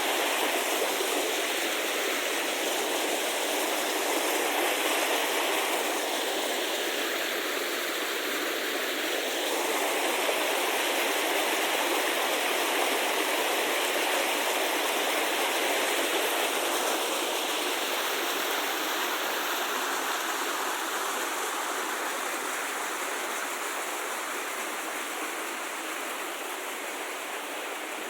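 Steady rushing of flowing water, even and unbroken, growing slowly fainter toward the end.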